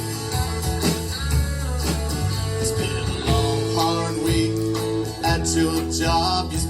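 Live band playing a country song: guitar over bass and a steady beat.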